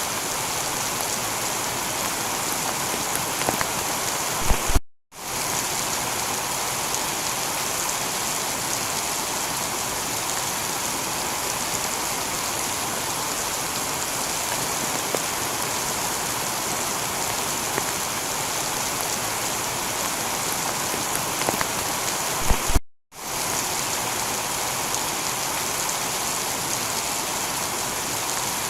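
Steady heavy rain falling on a tiled roof, with scattered sharp drips. The sound cuts out briefly to silence twice, a few seconds in and again about two-thirds of the way through, each time just after a few louder drips.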